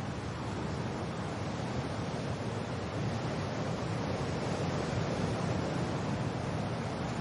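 Wind and rain blending into a steady, even rushing noise, heaviest in the low range, with no distinct drops or clicks standing out.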